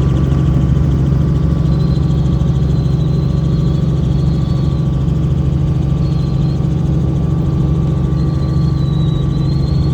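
Helicopter engine and rotor giving a loud, steady drone, with a thin high whine over it.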